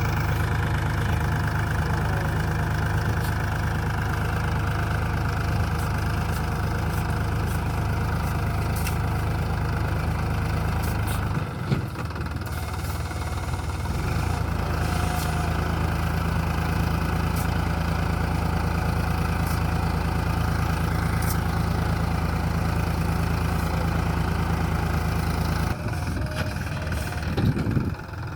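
Sonalika DI 35 RX tractor's diesel engine running steadily, its steady note breaking briefly about a third of the way in and again near the end.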